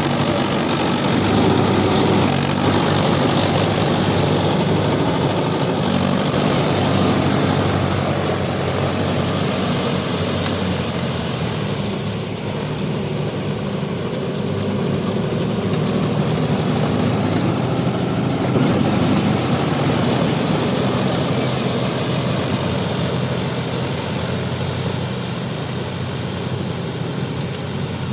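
Mahindra Yuvo Tech+ 585 DI 4WD tractor's diesel engine running steadily while working a rotavator through wet mud, easing off a little for a couple of seconds around the middle and again near the end.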